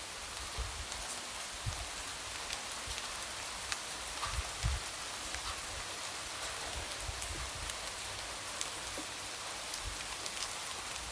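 Light rain falling steadily, a soft hiss with scattered drops tapping against a window, and a few soft low thuds about four seconds in.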